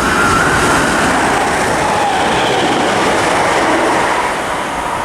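Class 321 electric multiple unit passing through the station: a loud, steady rush of wheels on rail with a faint whine.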